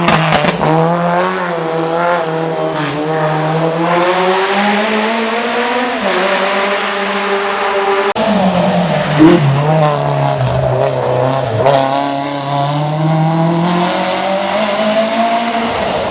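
Race car engine under hard acceleration, its pitch climbing and then dropping several times as the driver shifts and lifts off.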